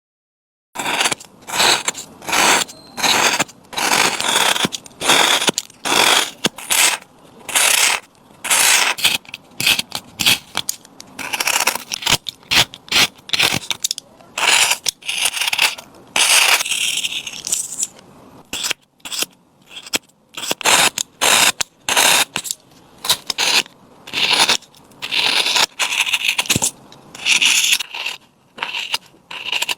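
Wood-carving tool scraping and cutting wood in repeated short strokes, about one or two a second, starting just under a second in.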